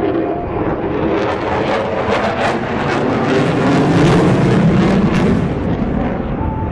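Jet aircraft flying past: loud engine noise that builds to a peak about four seconds in, then eases off as it moves away.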